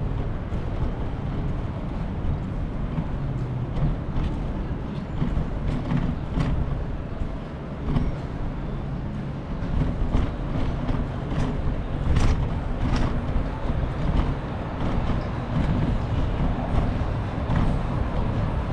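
City street traffic noise: a steady low rumble with scattered clicks and rattles.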